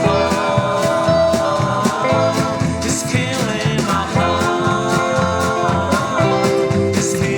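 Rockabilly band playing an instrumental break: lead guitar holding long notes over a steady double bass and drum beat, with cymbal crashes about three seconds in and near the end.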